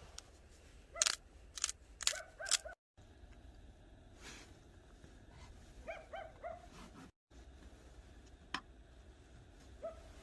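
A dog barking faintly in short yips, a few at a time in quick clusters.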